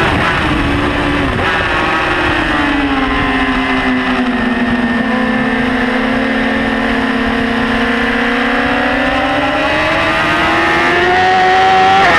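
BMW S1000RR inline-four engine heard from onboard, with steady wind rush. It drops in pitch as the bike slows in the first second or so, holds a steady lower note for several seconds, then rises again near the end as it accelerates.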